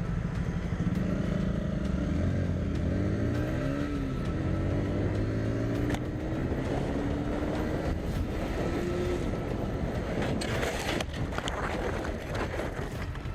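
Motorcycle engine accelerating, its pitch climbing and dropping back with gear changes, then rising slowly for several seconds. A short burst of noise follows about ten seconds in.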